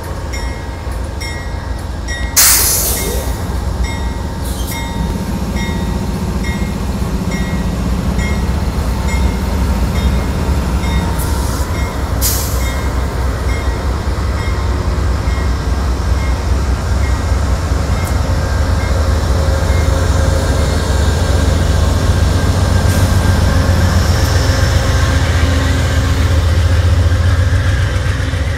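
Amtrak diesel passenger locomotives powering up as a long-distance train pulls out: a steady low engine drone that grows louder as it gathers speed. A bell rings at an even pace through the first ten seconds or so, and short sharp bursts of air hiss come about two and twelve seconds in.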